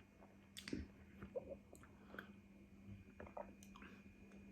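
Faint chewing with a few scattered soft clicks and smacks of the mouth, several seconds apart.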